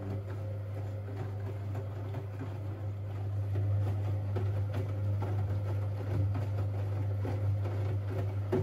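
Siemens Siwamat 6143 washing machine running a boil-wash cycle: a steady low hum with irregular rustling and knocking from the drum over it, growing louder about three and a half seconds in.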